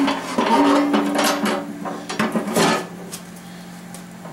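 Metal clinking and knocking as an engine's oil pan and its hardware are handled, with a brief ringing tone in the first half.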